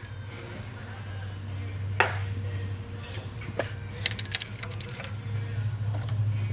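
Steel thread-repair tools clinking and knocking as they are handled: a few sharp knocks, then a quick cluster of ringing metallic clinks near the middle, over a steady low hum.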